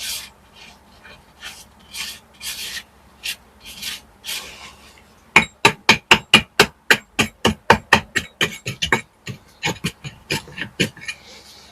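Hand tools working on brickwork: several scraping strokes, then from about five seconds in a quick run of sharp taps, about five a second.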